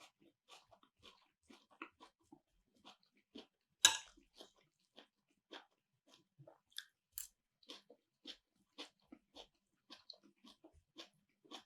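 A person chewing and biting a tomato and parsley salad, close to the microphone: a run of short, wet, crunchy mouth clicks about twice a second, with one sharper, louder click about four seconds in.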